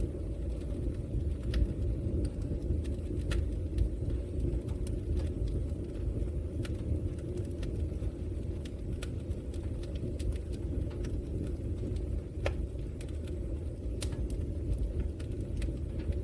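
Wood fire of burning logs in a fireplace: a steady low rumble of flames with scattered sharp crackles and pops.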